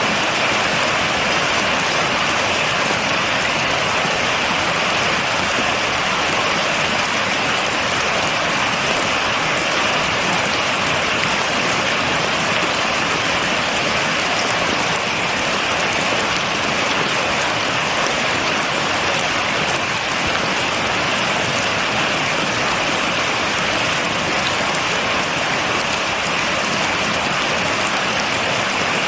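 Steady rain falling: an even hiss with a fine patter of drops, without thunder.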